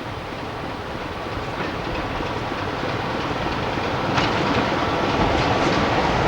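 Train running on the line, its rumble growing steadily louder as it approaches, with faint clicks of wheels over rail joints.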